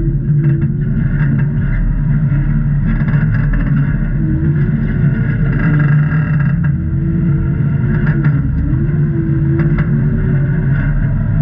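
Jeep engine running at crawling speed, its revs rising and falling a little, with a few scattered knocks.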